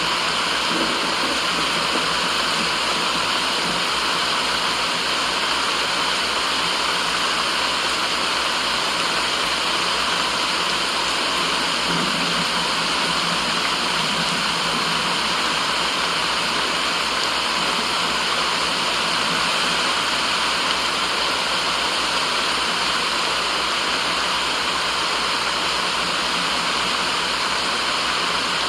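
Continuous white-noise track: an even, unchanging rushing hiss much like a waterfall, holding one level throughout.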